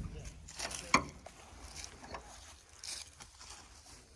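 Two short knocks about a second in, then a few faint scuffs and ticks.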